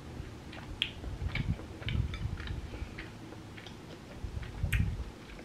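Close-miked chewing of chewy rice cakes in sauce: wet mouth clicks and smacks over low, uneven chewing, with a couple of sharper clicks, about a second in and near the end.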